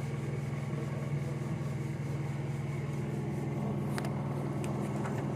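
Car engine idling at a steady speed, with a few short clicks about four seconds in.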